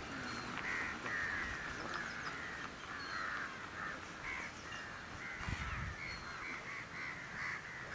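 Birds calling over and over, a steady run of short repeated calls throughout.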